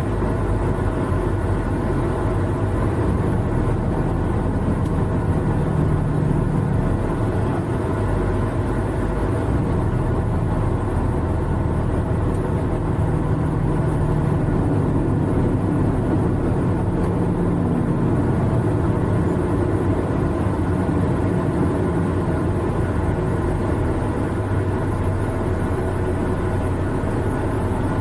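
Semi-truck diesel engine running steadily at low speed, a continuous low engine drone with slight shifts in pitch partway through.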